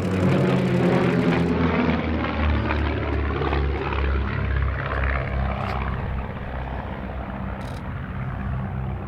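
Propeller aerobatic aircraft flying past, the engine and propeller note falling in pitch as it goes by, then fading a little.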